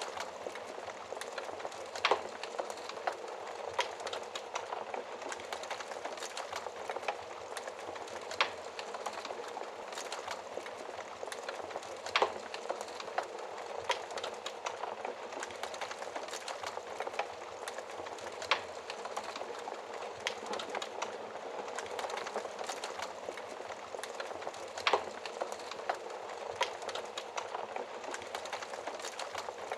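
Wood fire in a fireplace crackling steadily, with a sharp, louder pop every five or six seconds.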